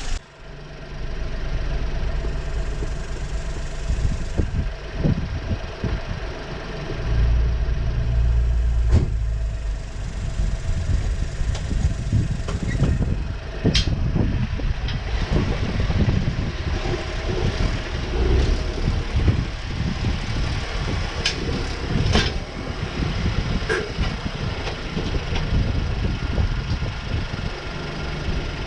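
Skoda Fabia's 1.0-litre TSI three-cylinder turbo petrol engine running at low revs as the car is driven slowly up car ramps. The engine grows louder about seven to nine seconds in, and a few sharp clicks or knocks come through.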